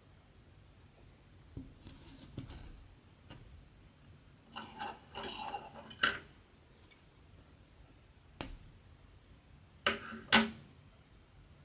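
Small hard objects clinking and clattering against each other a few times, with light clicks in between, as craft tools and supplies are handled on a table.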